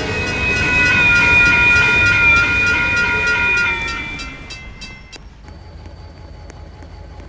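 Passing train: a rumble with several steady high-pitched squealing tones and evenly spaced clacks, fading away about four to five seconds in.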